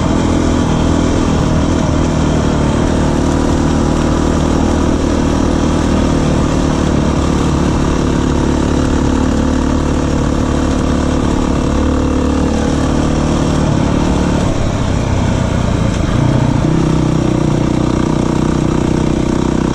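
Beta 350 four-stroke single-cylinder enduro motorcycle engine running steadily under way on a dirt trail. Its note dips briefly about fifteen seconds in, then settles at a new pitch.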